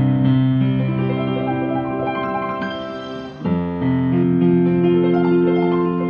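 Piano playing a slow flowing-arpeggio accompaniment: held low chords in the left hand under a long right-hand arpeggio running up the keyboard, with a new chord struck about halfway through.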